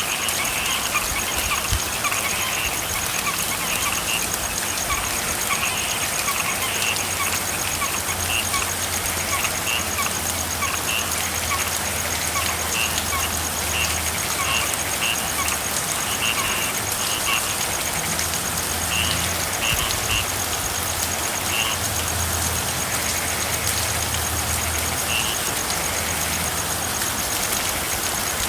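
Steady rain with frogs calling in short, repeated chirps, frequent at first and thinning out toward the end. A low hum runs underneath.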